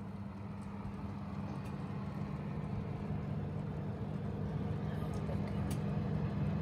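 Steady low hum of a kitchen appliance fan, with one held droning tone over a low rumble, slowly growing a little louder.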